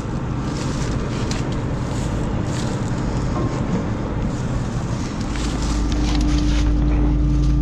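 Combine harvester running, with scattered clicks and wind on the microphone. About five and a half seconds in, a steady low engine hum comes up and stays.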